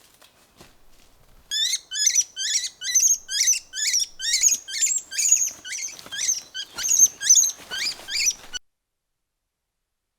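A small animal giving a rapid series of high-pitched, falling squeaky chirps, about three a second, which cut off suddenly near the end.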